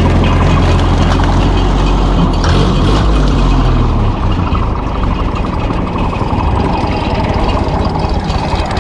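Ferguson tractor engine running with a mechanical rattle; its deep engine note drops away about four seconds in, leaving the clattering.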